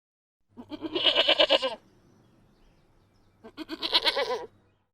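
A sheep or goat-type bleat heard twice: two long, quavering bleats, the second starting about a second and a half after the first ends.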